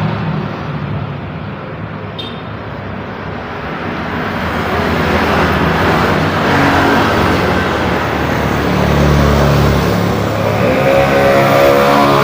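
Busy road traffic with vehicles passing: quieter for the first few seconds, then building, with a heavy engine's low drone later on and an engine climbing in pitch as it accelerates near the end.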